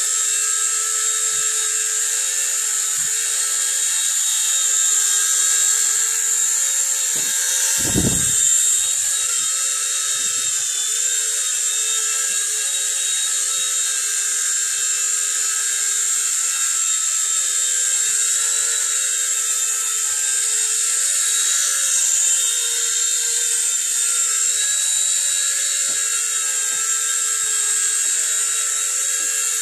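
Nine Eagles Bravo SX micro RC helicopter's small electric motors and rotor running, a steady high whine with a constant hiss. One brief thump about eight seconds in.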